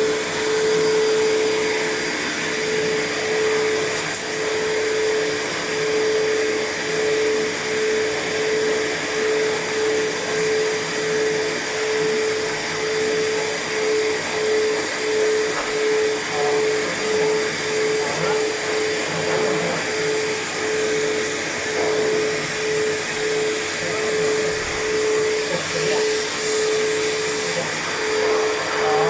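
A pet hair dryer blowing steadily as a cat's fur is dried, a continuous rushing air noise with a steady hum and a slight regular rise and fall in loudness.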